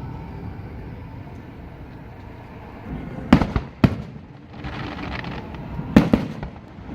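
Aerial fireworks bursting: two sharp bangs about half a second apart midway through, a stretch of hiss, then another close pair of bangs near the end, over a steady low background rumble.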